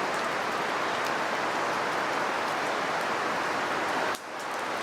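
Wood campfire burning in a fire stand: a steady hiss with a few faint crackles, dropping briefly about four seconds in.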